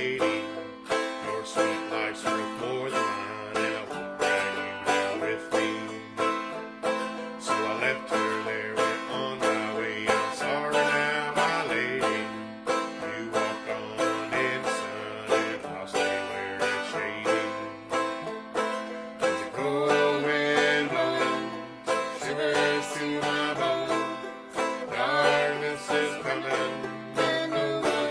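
Acoustic string band playing an instrumental break in a bluegrass-style song, with a banjo picking fast runs over guitar chords and a moving bass line; no singing.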